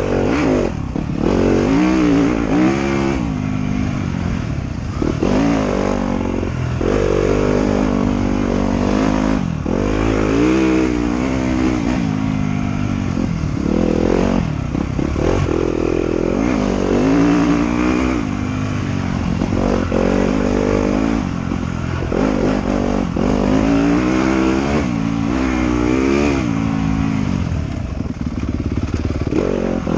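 Off-road motorcycle engine revving up and falling back again and again as the rider works the throttle along a trail.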